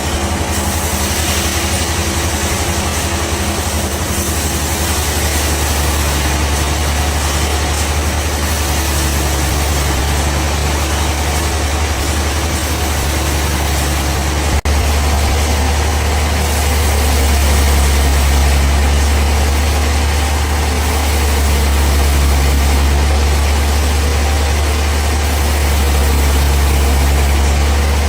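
Bandsaw sawmill machinery running steadily: a loud low hum with noise over it, and a single sharp click about halfway through.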